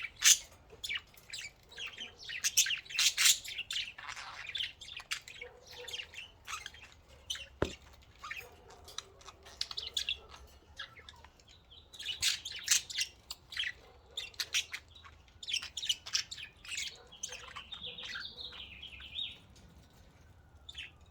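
Pet budgies chirping and chattering in quick bursts of short, high calls, with a longer warbling phrase near the end.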